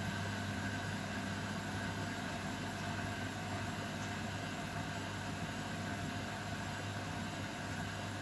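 Beko WML 51211 washing machine running with a steady whirring noise over a constant low hum.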